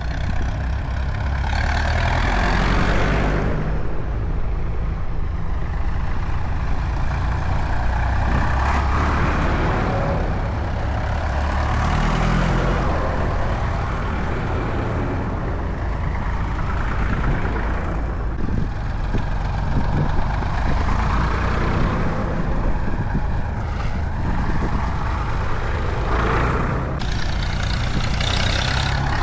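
Tractor engines running in a low, steady drone. Louder swells every few seconds, as of one tractor after another going past.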